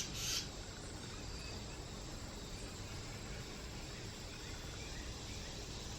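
Faint outdoor background noise with a few quiet, short bird chirps scattered through it, after a brief rustle at the very start.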